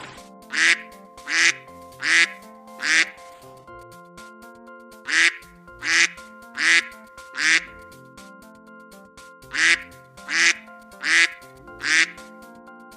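Duck quacking in three runs of four quacks, about one quack every three-quarters of a second, over background music.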